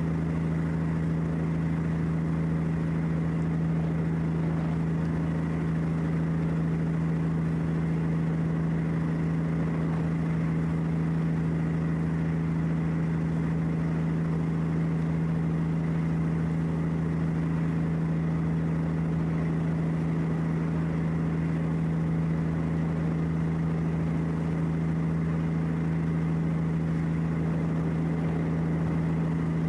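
An engine running steadily at idle: a constant low hum with a strong steady tone and no change in speed.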